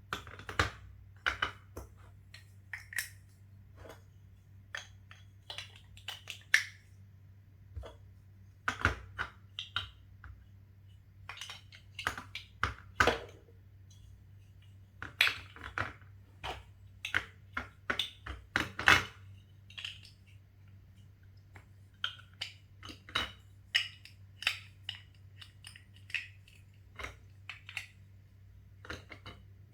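Plastic Lego Duplo bricks being handled, clicked together and set down: many short, irregular clicks and knocks, a few of them louder.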